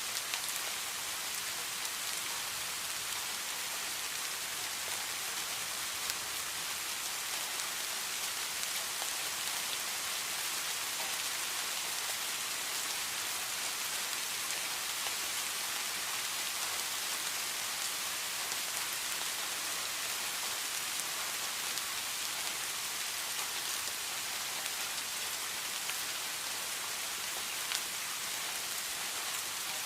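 Steady rain falling, an even hiss with a few louder individual drop ticks.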